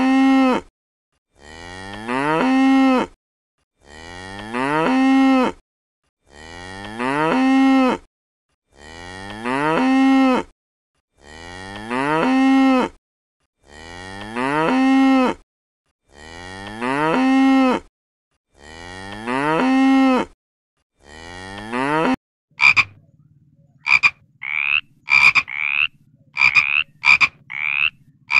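A cow mooing, the same rising moo repeated about every two seconds, around ten times. A little over twenty-two seconds in it changes to a frog croaking in short, irregular calls over a low steady hum.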